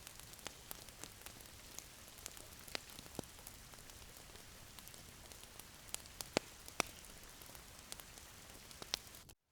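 Fireplace fire crackling: a steady soft hiss with irregular sharp pops and snaps. The sound cuts out briefly near the end.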